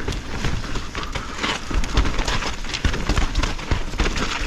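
Mountain bike riding down a wet trail: a steady hiss of tyres on wet ground, with frequent knocks and rattles from the bike jolting over roots.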